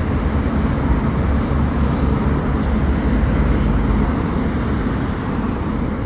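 Road traffic: a steady low rumble of passing vehicles, easing slightly near the end.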